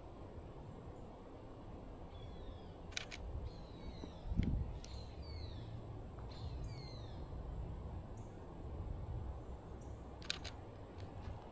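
Canon EOS RP camera shutter firing twice, each a quick double click, about three seconds in and near the end. Between the shutter releases a bird gives a run of short, falling whistled calls, and there is one low thump about four and a half seconds in.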